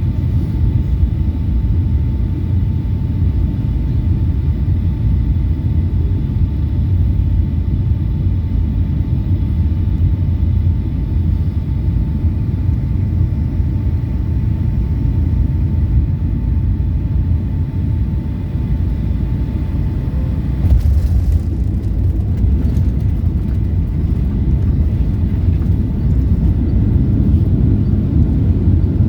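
Cabin noise of a Boeing 757 on landing: a steady low rumble with a thin steady whine over it. About two-thirds of the way through the whine stops and rattling and knocking set in.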